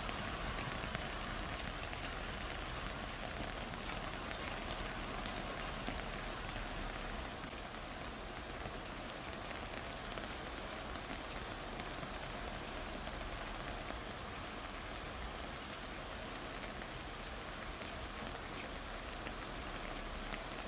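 Steady rain falling, a constant even hiss with many fine drop patters.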